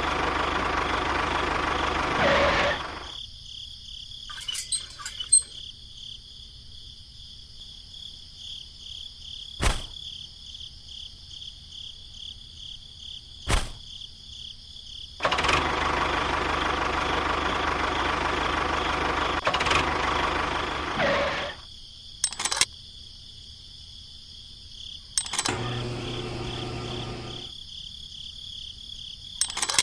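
A small motor runs loudly for about three seconds, then stops. It runs again for about six seconds in the middle and stops abruptly. A steady high-pitched buzz continues underneath, broken by a few sharp clicks.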